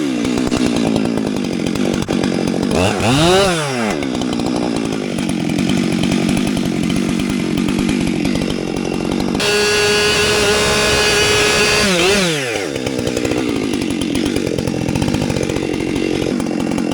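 Two-stroke chainsaw running: revved up and back down about three seconds in, held at high revs for a few seconds past the middle, then dropping back.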